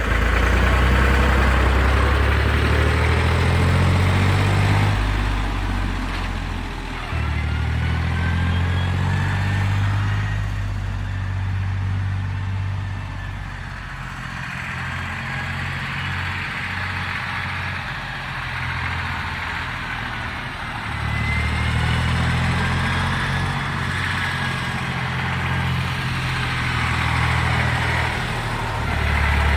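Air-cooled three-cylinder diesel engine of a 1962 Porsche 329 tractor running while being driven. Its note drops and picks up again several times as the engine speed changes, with a faint whine rising in pitch now and then.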